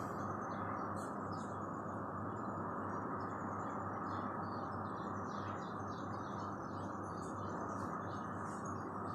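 Small birds chirping in short, repeated high calls over a steady background hum.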